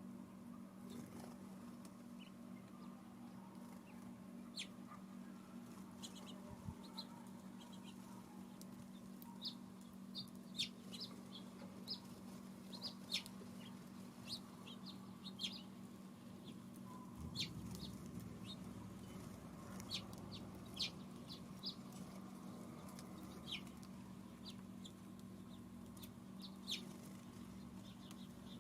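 Small songbirds giving short, sharp chirp and chip notes, scattered irregularly and thickest in the middle of the stretch, over a steady low hum.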